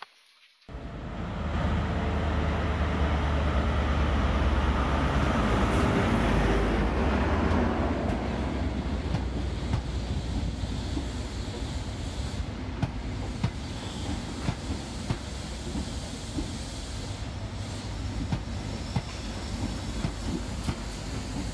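LNER Azuma train running along a station platform, starting just under a second in. A deep hum and rumble are strongest over the first several seconds, then ease into a steadier rumble with frequent clicks of wheels over rail joints.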